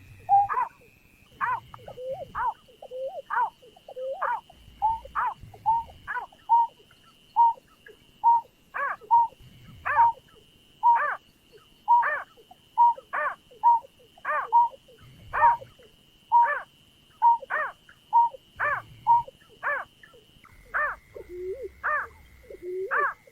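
Greater painted-snipe calling: a long series of short hollow hooting notes, about one or two a second, with a faint steady high-pitched tone behind them.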